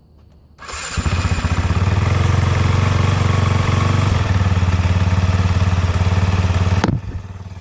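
A 2007 Husqvarna TE 450's 449 cc single-cylinder four-stroke engine on a cold start: it catches about half a second in and settles into a steady, loud fast idle. Near the end the sound drops abruptly to a quieter level while the engine keeps running.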